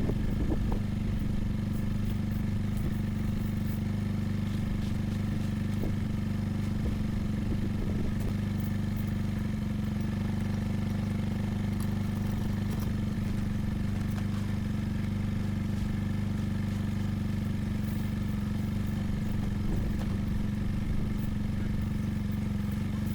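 ATV engine running steadily at constant speed, a low, even drone.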